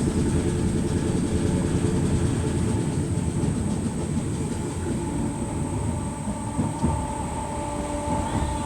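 Merseyrail Class 508 electric multiple unit heard from inside while running: a steady low rumble from the wheels and running gear that eases off slightly. A faint steady hum comes in near the end.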